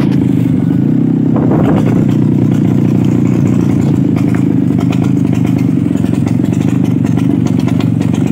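Vintage Vespa scooter's two-stroke engine running steadily under way, with a loud, even exhaust note; the rider speaks of trouble with the exhaust (knalpot).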